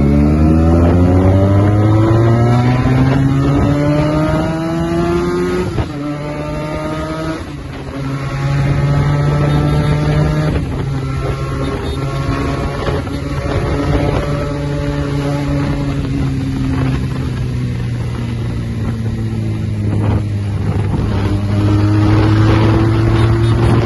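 Benelli TNT 300's parallel-twin engine through a loud SC-Project aftermarket exhaust, accelerating through the gears. The pitch climbs over the first six seconds, then drops at a shift. It holds fairly level and eases down through the middle, then rises again near the end.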